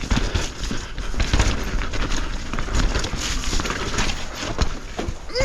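Mountain bike rattling and knocking over rough trail. Irregular clicks and clunks from the frame and chain mix with heavy thumps as the tyres hit roots and rocks, over a steady rushing noise.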